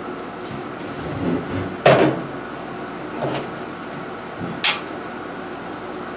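A few knocks and clatters of parts and tools being handled while a part is fitted back onto the pressure washer engine, the sharpest about two seconds in and again near five seconds, over a steady background hum.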